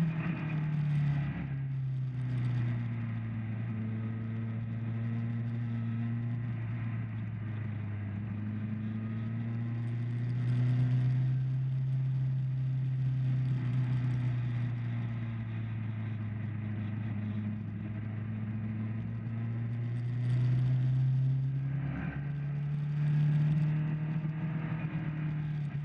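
Motorcycle engine running under power. Its pitch drops about a second in, holds fairly steady for a long stretch, then climbs again toward the end, with a hissing rush swelling several times.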